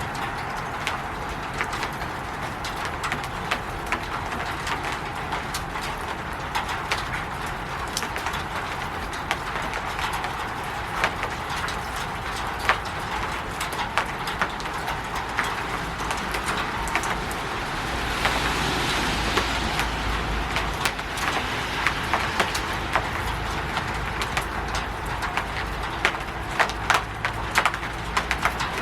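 Rain falling on a roof: a steady patter dotted with sharp individual drop ticks, swelling a little louder for a few seconds about two-thirds of the way through.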